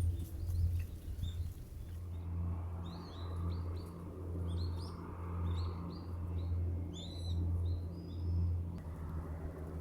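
Small bird chirping, runs of short, quick high notes repeated over several seconds, over a steady low rumble.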